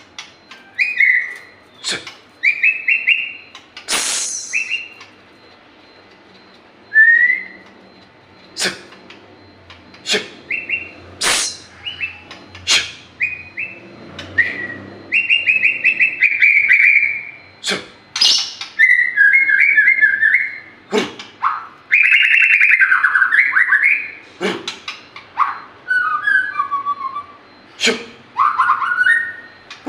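White-rumped shama (murai batu) singing in full voice: a varied song of short whistled phrases broken by sharp, very brief high notes, in quick bursts with short pauses between them.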